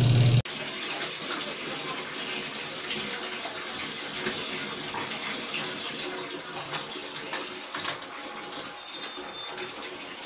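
Water running steadily into a tub while laundry is being done. A loud low hum at the very start stops abruptly about half a second in.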